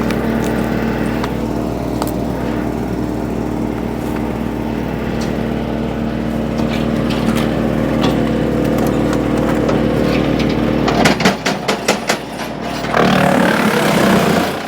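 Woodmaxx WM8H PTO wood chipper running steadily off the tractor with an even mechanical drone. About eleven seconds in comes a quick series of sharp cracks, then a louder, rougher grinding as a branch is pulled in and chipped.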